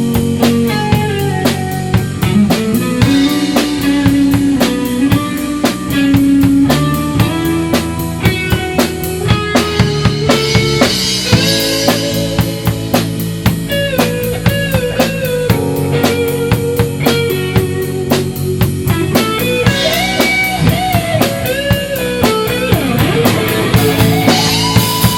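Live rock band playing an instrumental passage: drum kit keeping a steady beat with bass, and a guitar playing a melodic lead line with bent notes.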